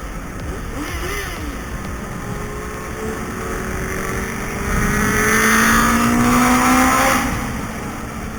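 Vehicle engine running under load over a steady low wind rumble; its pitch climbs slowly and it grows loudest from about five to seven seconds in, then eases off.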